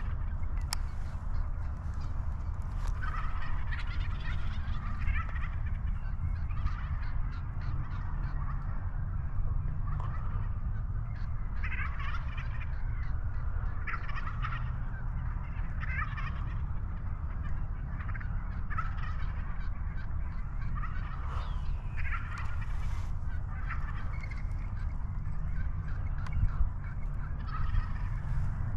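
Wild turkey gobblers gobbling again and again, their rattling calls coming every second or two and overlapping, from several toms.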